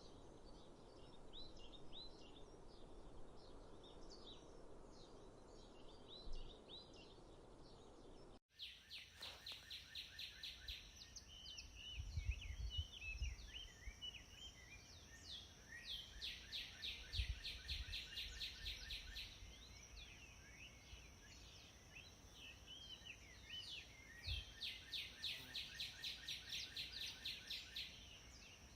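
Wild birds chirping and singing over a steady low rushing background. About eight seconds in, the sound cuts to a different recording: closer bird song in quick runs of repeated notes, with a steady high whine behind it and a few low thumps.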